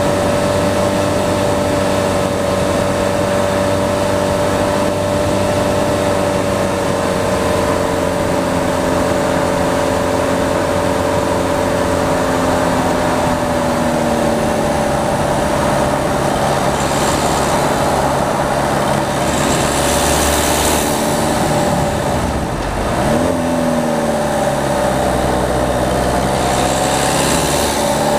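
Peugeot 208 diesel engine pulling the car along a mountain road, heard from outside at the front of the car. Its note sinks slowly about halfway through, dips briefly a little after 22 seconds in, then climbs again, with short hissing rushes over it.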